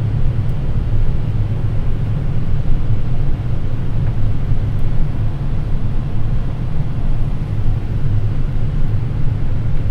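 Steady low rumble of flight-deck noise in a Boeing 787 on final approach, with gear down and flaps at 30: airflow over the airframe and the engines at approach power.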